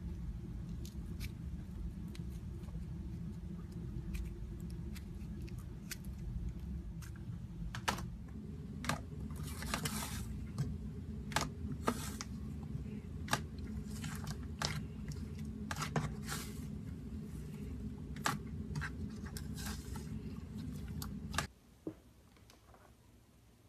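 Slime being worked by hand: scattered sticky clicks and pops over a steady low rumble. The sound cuts off suddenly near the end.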